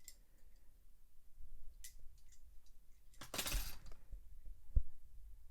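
Small clicks and clinks of die-cast toy trucks being handled, with a brief swish about three seconds in and a single sharp tap near the end.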